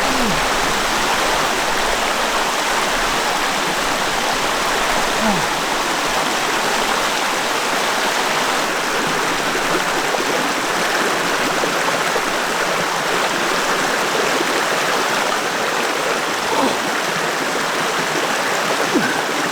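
Calm mountain stream running steadily over rocks, with a small gurgle now and then.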